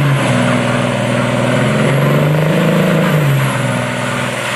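Big lifted mud-truck engines running hard at high revs under heavy load during a truck tug-of-war pull, their pitch rising and falling as the drivers work the throttle. The loud engine sound sits over a dense hiss of spinning tyres and exhaust.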